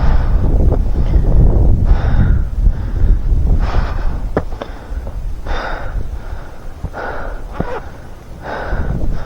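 A climber's heavy breathing, a hard breath about every one and a half seconds, over wind buffeting the microphone that is strongest at the start and then eases.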